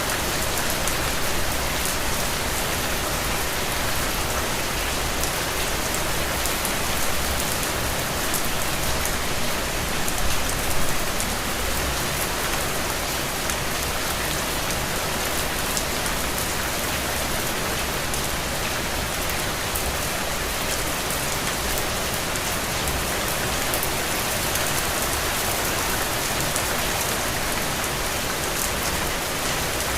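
Gentle rain falling steadily, an even hiss with many small drop ticks, briefly louder about ten seconds in.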